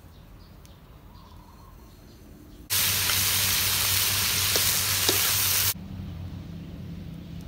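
Chicken hearts and chunks of luffa sizzling loudly in a hot wok as they stir-fry. The sizzle starts abruptly about a third of the way in, runs steadily for about three seconds, and cuts off suddenly.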